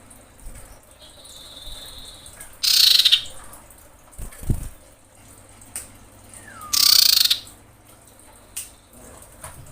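Female common iora (cipoh) calling: a held high whistle about a second in, then two loud harsh calls, each under a second long, a few seconds apart. A low thump comes midway.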